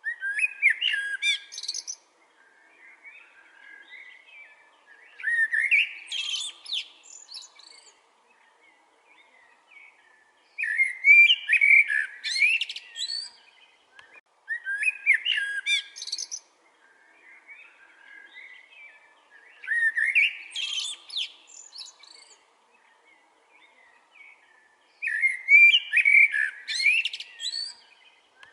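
Songbird singing: bright, high, twittering phrases of about two to three seconds, repeated roughly every four to five seconds, with softer calls in the gaps.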